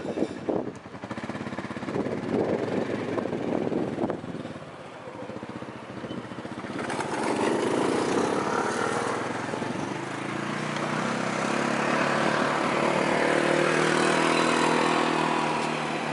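Engine noise of a passing vehicle that swells up about seven seconds in and stays loud with a steady hum, after a first half of uneven, rushing noise.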